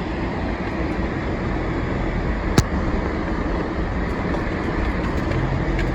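Steady road noise of a vehicle driving through deep fresh snow: a continuous low rumble of engine and tyres. A single sharp click sounds about two and a half seconds in.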